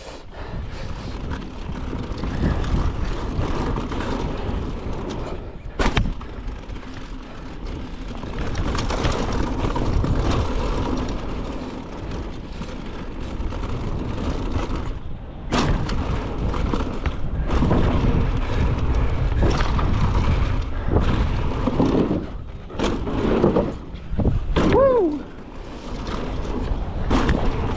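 Mountain bike riding fast down a dirt jump trail: a continuous rumble of wind on the camera microphone and tyres on dirt, swelling and fading with speed, with a couple of sharp knocks.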